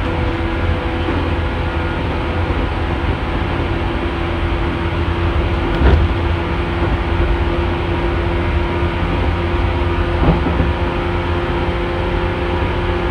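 JNR 115 series electric train running along the line, heard from the rear cab: a steady rumble of wheels on rail with a steady hum, and two short knocks about six and ten seconds in.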